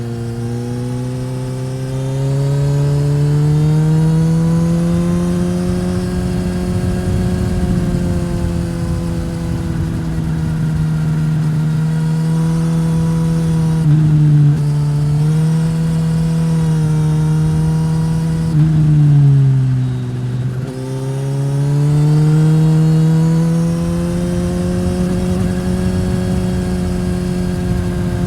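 A Suzuki GSX-S1000's inline-four engine under way through a Yoshimura R-11 slip-on exhaust. Its pitch climbs steadily for the first few seconds under throttle and holds, with a brief dip about halfway through. It then falls away as the rider rolls off, and rises again on the throttle near the end.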